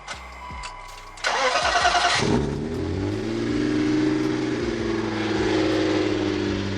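BMW E30 with a swapped-in M52 straight-six being started: the starter cranks for about a second, the engine catches, flares up and settles into a loud, steady idle.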